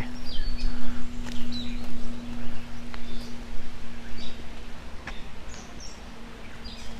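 Birds giving a few short, high chirps now and then over a low rumbling background noise and a steady low hum.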